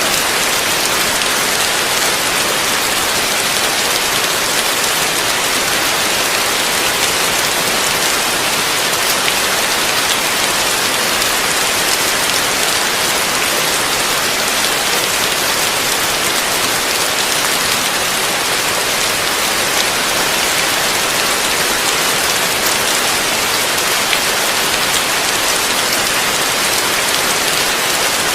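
Heavy rain falling steadily, a dense even hiss of drops with no breaks or swells.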